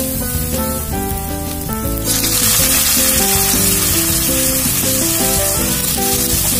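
Pork pieces going into a hot wok of sautéing onions and garlic: the oil's sizzle jumps suddenly much louder about two seconds in and keeps hissing as the pork is stirred, over background music.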